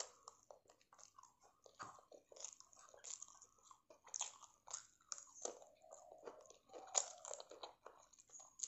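A person chewing a mouthful of fried prawn pakoda and rice close to the microphone: a run of small, irregular crunches and mouth clicks.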